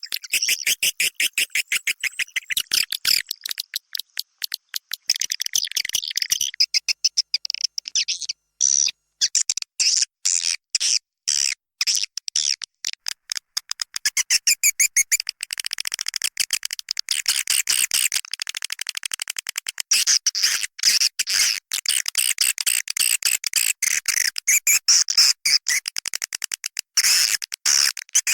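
Swiftlet lure sound: recorded edible-nest swiftlet calls, rapid high-pitched chirping and clicking trills from several overlapping birds, with short breaks between bursts. It is the kind of call played in swiftlet houses at the entrance hole and inside to draw swiftlets in.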